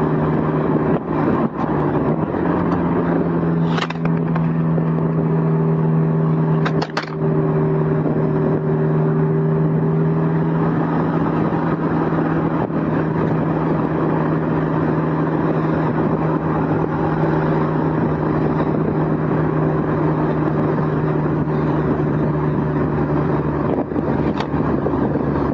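Honda S2000's four-cylinder engine running at a fairly steady speed while driving with the top down, over wind and road noise. A loose recorder on the passenger seat clatters briefly about four and seven seconds in.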